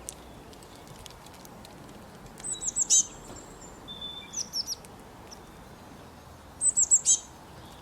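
Songbird singing short phrases of quick, high chirps, three bursts a couple of seconds apart, over a faint steady background hiss.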